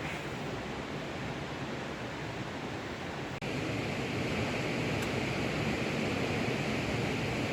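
Steady rushing noise with no distinct events. It shifts abruptly and grows a little louder and brighter about three and a half seconds in.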